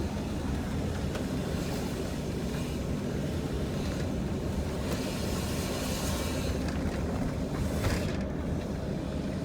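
Steady road and engine rumble of a moving vehicle, heard from inside the cab.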